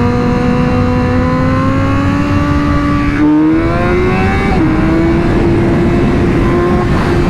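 Sport motorcycle engine pulling under load. The revs climb slowly, rise faster about three seconds in, and drop once at an upshift about four and a half seconds in, then hold steady, with wind rushing.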